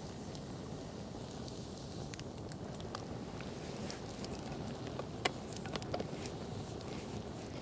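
Campfire crackling: scattered sharp pops and snaps over a steady low rush, with one louder pop about five seconds in.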